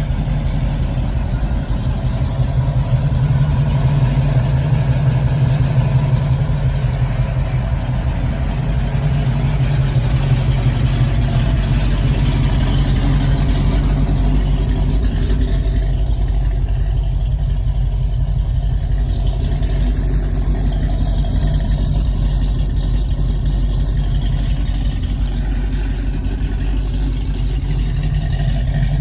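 1969 Pontiac Firebird's engine running steadily at a low, even pitch, with a little variation in level.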